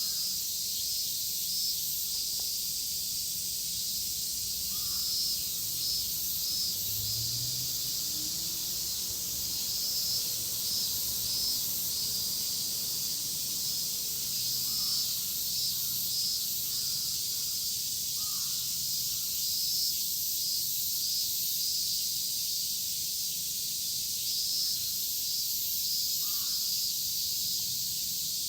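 Dense chorus of cicadas: a steady, high shrill hiss with a faintly pulsing edge. Faint short bird calls come through it now and then.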